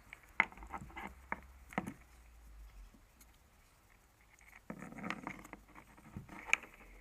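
Hands fumbling with plastic electrical connectors and wires, trying to get them to plug together: scattered light clicks and taps, with a busier cluster about five seconds in.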